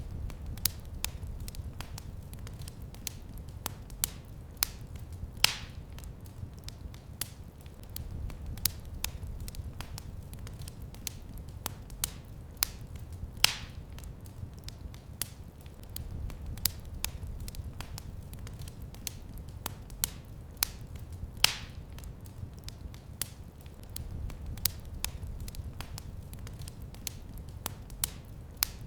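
Wood fire crackling in a fireplace: dense sharp snaps and ticks over a low rumble of the flames, with a louder pop about every eight seconds.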